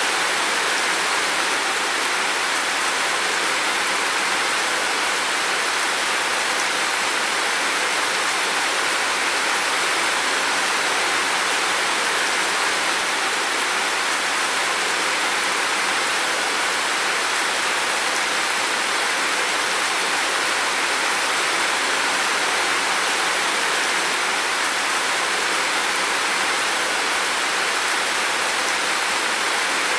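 Heavy rain falling in a steady, even hiss, without a break or a change in level.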